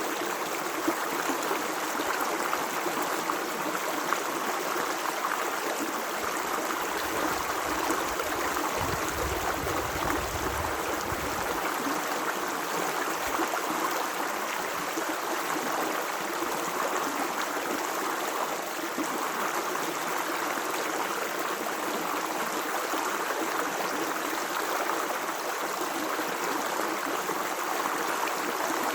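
Running water of a stream, a steady rushing flow with no break, with a brief low rumble under it from about seven to twelve seconds in.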